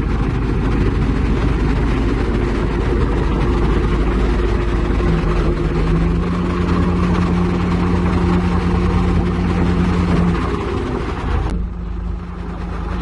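Heavy diesel engine of construction machinery running steadily. The sound changes abruptly about a second and a half before the end.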